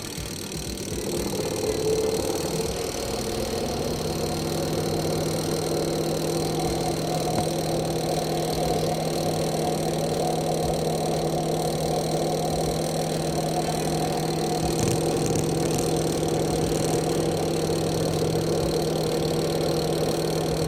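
Twin-tub washing machine motor starting about a second in, spinning up over a few seconds, then running with a steady hum.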